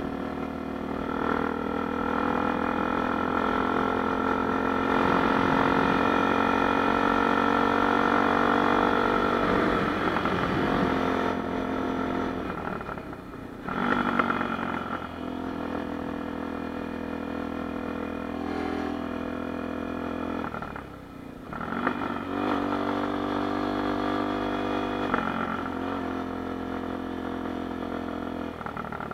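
Honda Tornado 250 single-cylinder four-stroke motorcycle engine running with changing revs. Its pitch climbs slowly over the first several seconds, then falls off, with two short lulls in the engine note, one about halfway through and one about three-quarters through.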